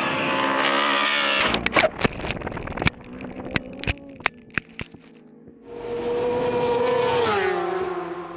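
Racing motorcycle engines at high revs, broken in the middle by a string of sharp cracks and snaps lasting a few seconds. A second engine comes in after that and its pitch drops near the end.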